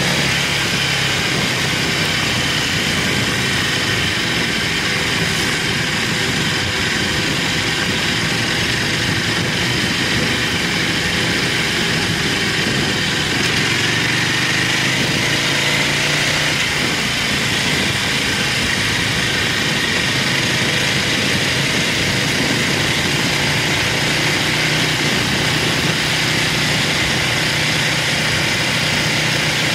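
Buell motorcycle engine running steadily under way, heard over rushing wind and road noise. About halfway through, the engine note rises and falls as the revs change through the bends.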